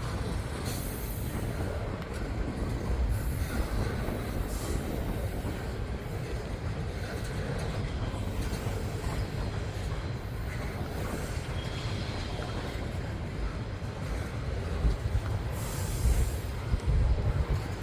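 Freight train rolling past: a steady rumble of railcar wheels on the rails, growing a little louder and more uneven near the end.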